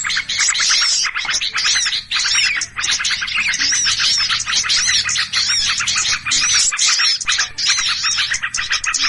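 Many small birds calling at once in an agitated, alarm-like commotion: fast, overlapping high chirps and arched whistled notes, with no let-up. It is a bird-lure ('pikat') recording of noisy, excited birds, of the kind played to draw other small birds in.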